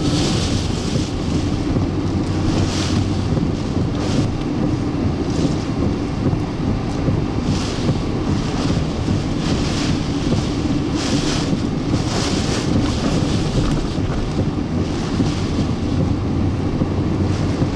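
Hurricane-force wind and driving rain battering a moving vehicle. A steady low rumble runs under hissing surges of rain and spray that come every second or two.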